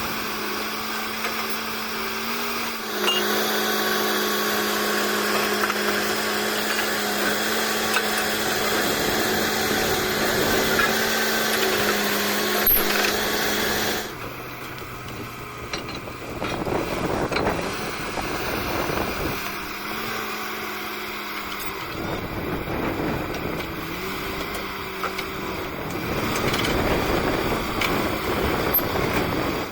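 Borewell drilling rig's engine running steadily under load. About halfway through, its note drops, the sound gets quieter, and a rougher, noisier sound comes in.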